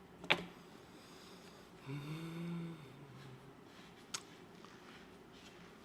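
Two sharp clicks of billiard balls striking, a loud one just after the start and a fainter one about four seconds in. Between them, about two seconds in, a person gives a short, low hum.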